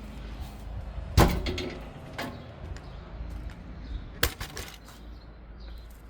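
Two sharp knocks about three seconds apart, with a fainter one between them, over a low steady hum.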